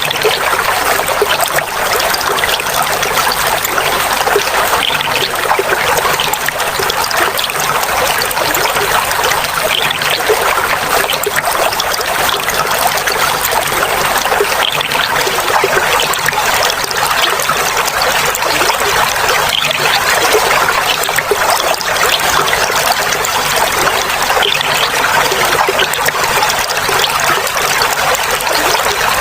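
Clear water flowing and trickling steadily, a continuous babbling of water over stones or a small drop, with no break or change.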